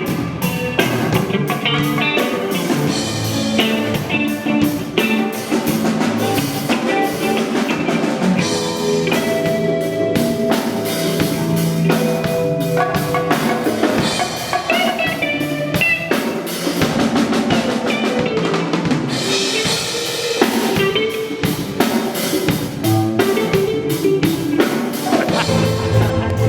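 A live band playing through a PA during a sound check: drum kit with kick, snare and rimshots, percussion, bass, guitar and keyboard.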